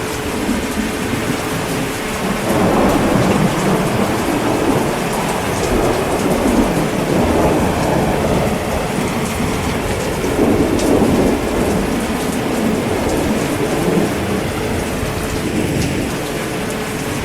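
Heavy rain falling steadily, with long rolls of thunder rumbling from about two seconds in and again around ten seconds in.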